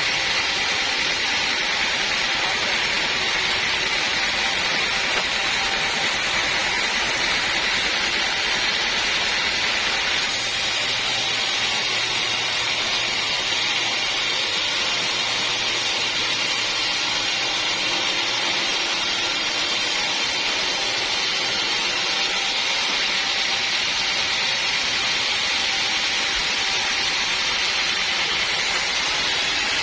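Sawmill saw running steadily as it cuts teak, a loud, even, hissing machine noise. From about ten seconds in until about twenty-three seconds, the hiss turns brighter and a low hum joins it, then both fall back.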